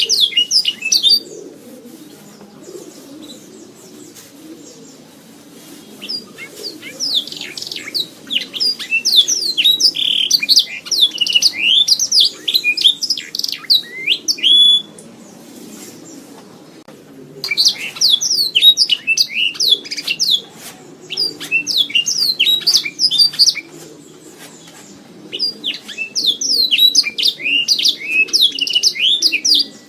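Domestic canary singing long phrases of rapid, high chirps and trills, broken by pauses of a few seconds, over a faint low background noise.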